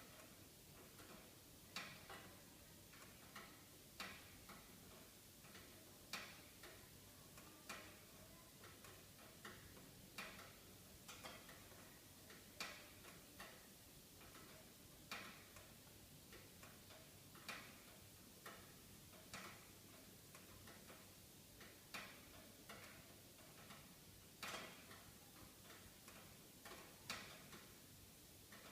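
Faint wood fire in a fireplace crackling: irregular sharp pops and snaps, roughly one every second or two, over a low steady hiss.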